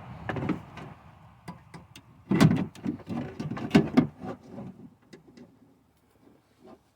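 Power-window regulator with its motor and cables knocking and rattling against a truck's door as it is worked into the door. Irregular knocks and clatters that thin out and stop about five seconds in.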